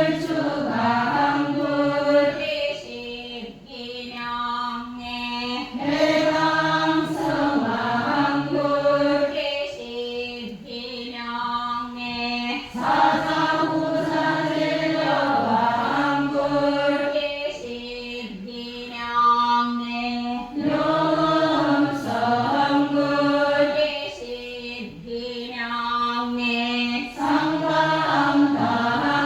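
A large group of voices chanting a Buddha's name in unison during prostration prayer, the same short sung phrase repeated over and over every few seconds.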